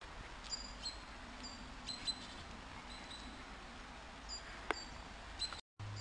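Small birds chirping, with short high calls scattered throughout, over a faint steady outdoor hum; a single sharp click comes about three-quarters of the way through.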